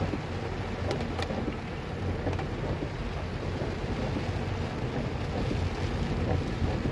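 Heavy rain heard from a moving vehicle: a steady hiss of rain over the low rumble of the vehicle driving on wet, flooded streets, with a few faint ticks about a second in.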